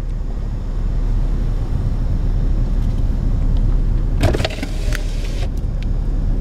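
Steady low rumble of a car driving on a snowy road, heard from inside the cabin, with a brief rushing noise about four seconds in.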